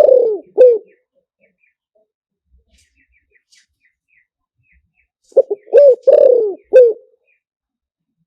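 Spotted dove cooing. Each phrase is two quick short notes, a longer note that slides downward, then a final short note. One phrase ends in the first second, and a full phrase comes about five seconds in.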